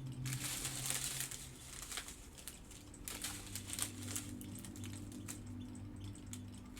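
Small plastic bags of diamond-painting drills crinkling as they are handled, an irregular string of short crackles.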